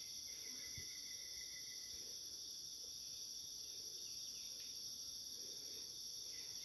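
Steady, high-pitched chorus of forest insects, crickets or cicadas, droning without a break.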